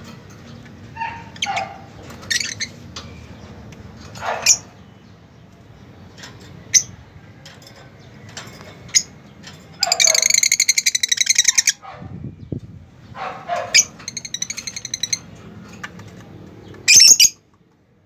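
Pet birds chirping and calling back and forth with short, sharp chirps. About ten seconds in comes a loud, fast rattling chatter lasting almost two seconds, another shorter chatter a few seconds later, and a loud call near the end.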